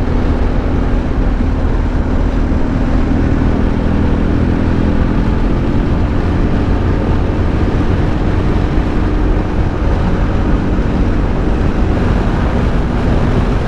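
Motorcycle on the move: steady engine drone with a low rumble and wind noise, running evenly throughout.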